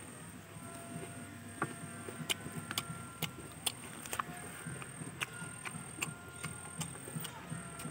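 Close-miked eating sounds of fried chicken being chewed: wet mouth clicks and lip smacks, coming irregularly after the first second or so.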